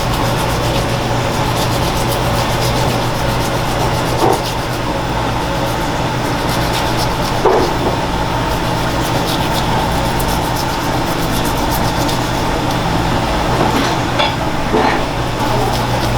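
Steady mechanical hum of kitchen machinery, with a few short knocks and scrapes from work on a large olive flounder at the cutting board.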